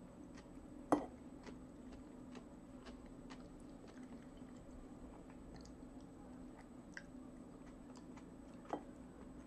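Quiet chewing with small clicks of a metal fork against a china plate. A sharper clink about a second in and another near the end.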